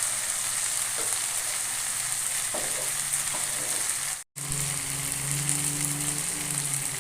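Chicken and potato curry sizzling in a hot pan with a steady hiss and a few light knocks. The sound drops out for an instant about four seconds in, and a low steady hum joins after that.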